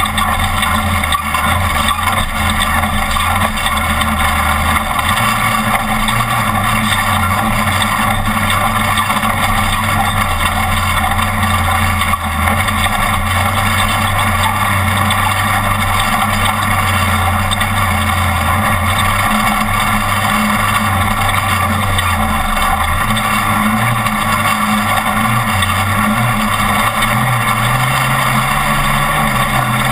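Off-road race truck's engine running hard under way, its note shifting up and down with the throttle and climbing near the end, over a steady noise of rattling, tyres and wind from the rough terrain.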